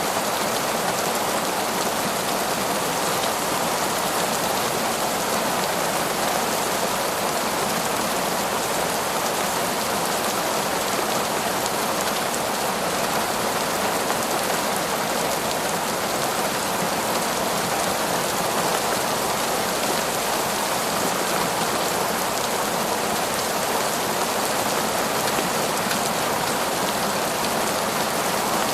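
Heavy, steady torrential rain falling through forest trees, an even unbroken hiss of downpour.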